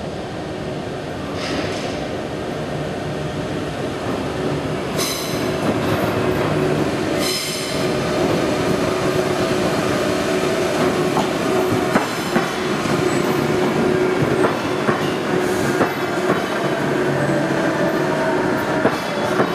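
Underground commuter train approaching through the tunnel and running into the station platform, growing steadily louder with a steady motor whine. There are brief high wheel squeals about five and seven seconds in, and the wheels click over rail joints as it passes along the platform.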